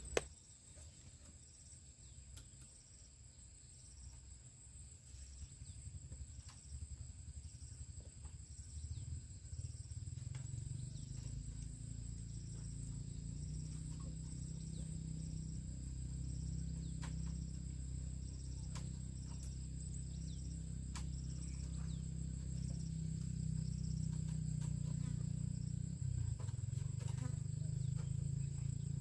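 Insects singing: a steady high-pitched buzz with a second, regularly pulsing note just below it. A low rumble swells in from about ten seconds in and becomes the loudest sound, and a single sharp click comes at the very start.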